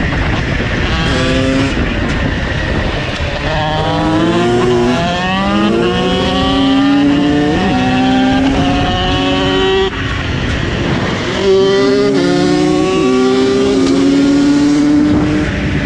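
KTM SX two-stroke supermoto engine accelerating hard through the gears, its pitch climbing and dropping back at each upshift. About ten seconds in it drops off the throttle, then pulls up through the gears again.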